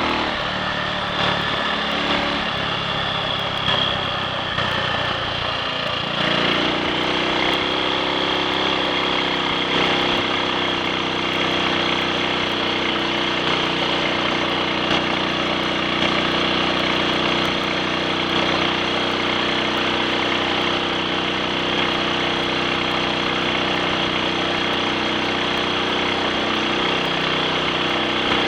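Triumph Sports Cub's single-cylinder four-stroke engine running on the road. Its note changes during the first six seconds or so, then settles to a steady pitch. It keeps running evenly without misfiring or cutting out, after a fuel tank cleaned of fine rust and a new spark plug.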